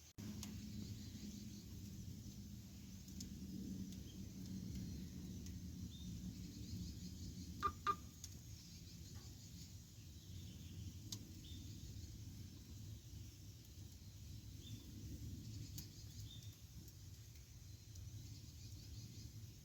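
Campfire burning with a low, steady rumble and a few sharp wood crackles; a close pair of loud pops comes about 8 s in.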